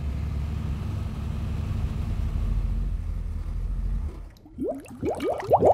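1965 Chevrolet Impala's carbureted engine idling steadily just after a start, warming up; the sound stops abruptly about four seconds in. Then comes a rapid series of short rising chirps.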